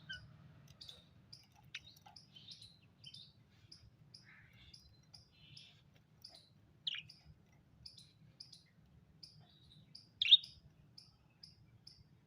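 Pet parrot chirping: scattered soft chirps, and two sharp calls sliding downward in pitch about seven and ten seconds in, the second the loudest. Short high chirps repeat evenly about twice a second throughout.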